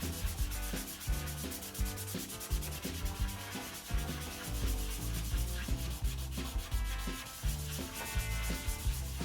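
Abrasive scouring pad scrubbing an oily sheet-metal engine valley pan, in rhythmic back-and-forth strokes.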